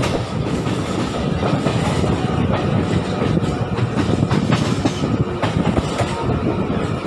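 MEMU electric multiple-unit train running along the track: a steady rumble of wheels on rails with irregular clacks over the rail joints.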